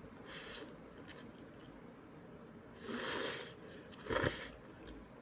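A person eating ramen: a short slurp near the start, a louder slurp of noodles about three seconds in, and a shorter one about a second later.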